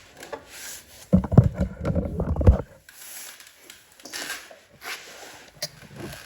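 Hands working on a snowblower's carburetor and linkage: about a second in, a run of heavy low knocks and bumps for about a second and a half, then light clicks and rustling.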